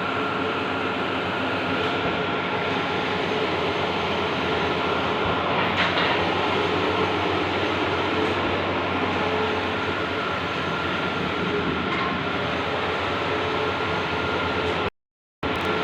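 Large-format outdoor banner printer running: a steady mechanical whir with a thin, high, steady whine through it. The sound cuts out suddenly for about half a second near the end.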